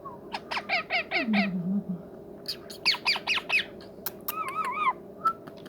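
Ringneck parrot calling in two quick runs of short, rapid squawks, then a brief warbling whistle about four seconds in.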